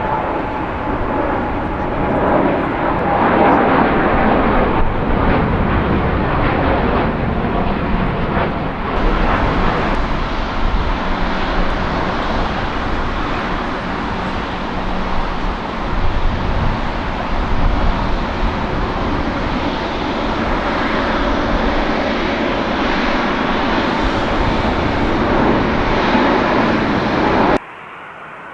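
Boeing 787-9 Dreamliner turbofan engines, loud and steady; the first aircraft is at takeoff power. About nine seconds in the sound changes to a second 787-9, and it drops away sharply near the end.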